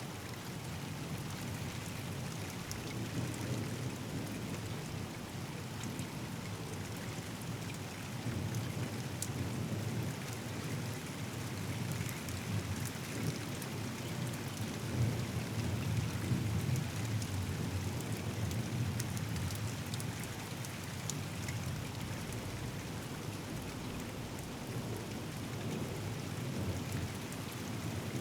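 Steady rain falling, with fine drop ticks throughout, during a thunderstorm. A low, rolling rumble of thunder builds in the middle and is loudest about halfway through before easing off.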